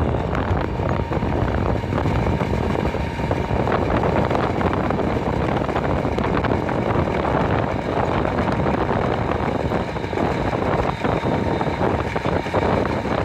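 Garbage truck running: a steady, loud engine noise with a faint, constant whine.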